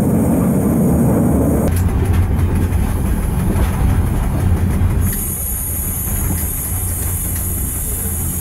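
Diesel train heard from the cab, with a steady engine drone and wheel rumble; the heavy low rumble drops off about two seconds in. From about five seconds in a steady high-pitched hiss joins, as the train rolls slowly alongside a station platform.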